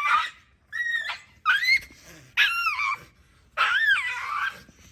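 A dog gives four high-pitched whining yelps, each one rising and falling, about a second apart. They are distress cries from a dog being held down for a vaccination.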